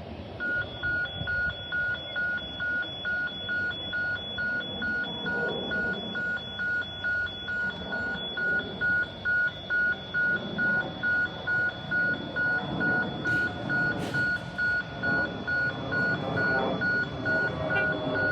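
Electronic warning beeper at a railway, one clear tone repeating steadily about twice a second, over a continuous low rumble of rail and traffic noise.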